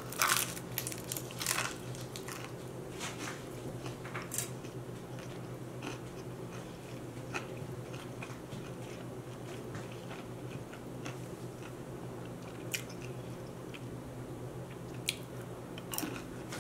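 A person biting and chewing crispy fried food. Loud crunches come in the first few seconds, then quieter chewing with a few scattered crunches, over a steady low hum.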